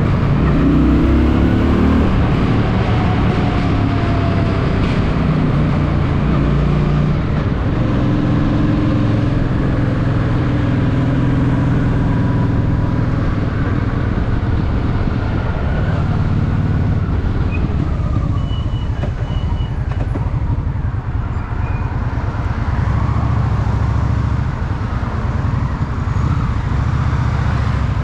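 Honda Shadow VT750's V-twin engine running while riding, its exhaust note rising and falling with the throttle. It eases off about two-thirds of the way through and picks up again near the end.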